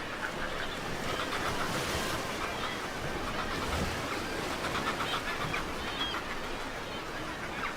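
Northern gannet colony calling: many birds give short calls in quick runs, one after another, over a steady wash of wind and surf.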